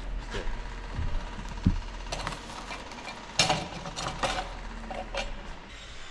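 Scattered irregular knocks and clanks of tools and material being handled, over a steady low hum of job-site machinery.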